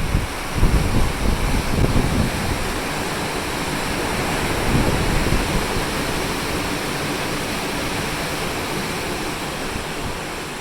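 Steady rush of open-ocean waves below a moving cruise ship, with wind gusting on the microphone in the first two seconds.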